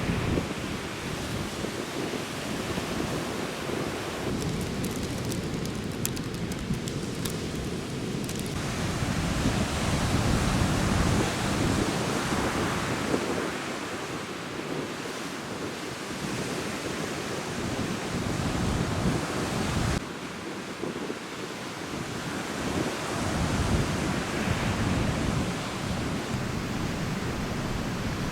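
Sea waves breaking on a beach, driven by strong monsoon wind, with wind buffeting the microphone; the surf rises and falls in loudness, and the sound shifts abruptly a couple of times.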